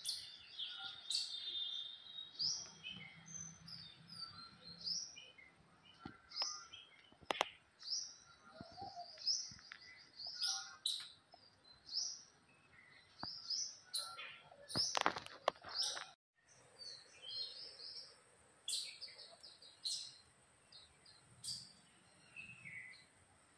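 Small birds chirping and twittering in many short, rapid calls, with a brief break about 16 seconds in. A couple of sharp clicks stand out around 7 and 15 seconds.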